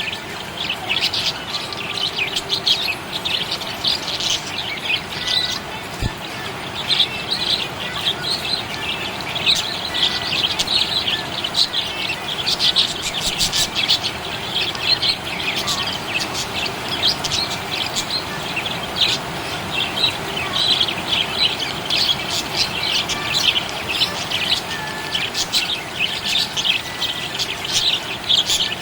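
Budgerigars chirping: a dense, continuous chatter of many quick, overlapping chirps.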